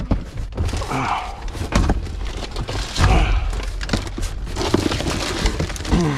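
Rummaging in a dumpster: irregular knocks, clunks and rustling as boxes, bags and soda bottles and cans are shifted and pulled out.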